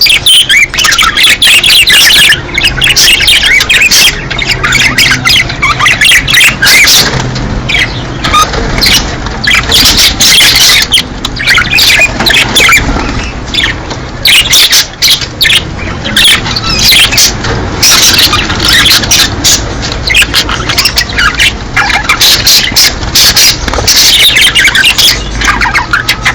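A flock of budgerigars chattering nonstop, with dense warbling chirps and squawks: breeding-season calls. A low steady hum runs underneath.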